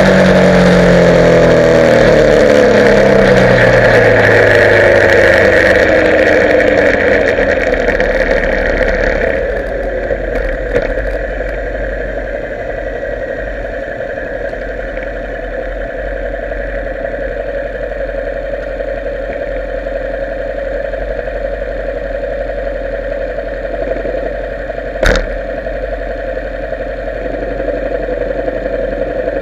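Motorcycle engine slowing down, its pitch falling, under loud rushing wind noise. About nine seconds in the rushing stops and the engine settles into a steady low idle. A single sharp click comes near the end.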